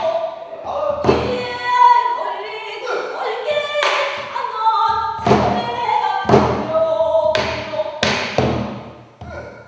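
Pansori singing: a solo voice in long, wavering sung lines, with buk barrel-drum strokes beating out the rhythm about once a second.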